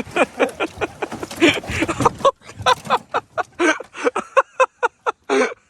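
Men laughing hard in quick, repeated bursts.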